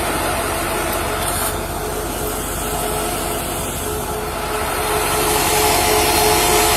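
Vehicle engine idling: a steady hum carrying a couple of steady tones, with a hiss that grows louder about five seconds in.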